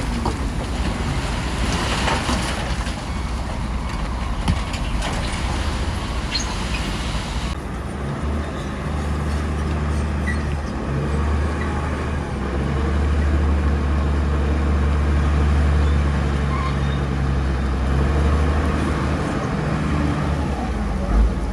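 Bulldozer diesel engine running under load, a steady low drone with hissing and clanking mixed in. The sound changes abruptly about seven seconds in, after which the low engine drone is louder and steadier.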